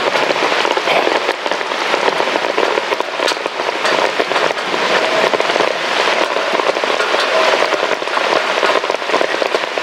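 Heavy rain pouring down, a loud dense patter of drops hitting a surface.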